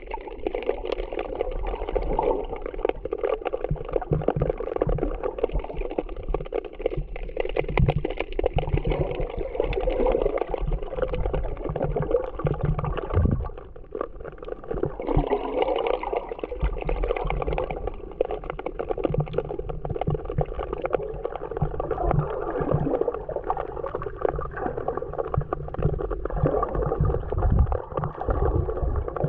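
Muffled sea water heard with the microphone underwater: continuous gurgling and sloshing with low, dull thumps of the water surging.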